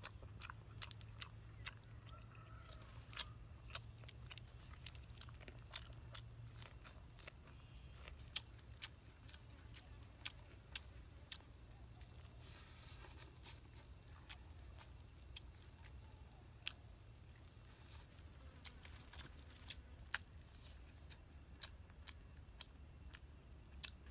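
A person chewing and biting into braised chicken held close to the mouth, with many short, sharp clicks and smacks of eating scattered throughout over a faint steady low hum.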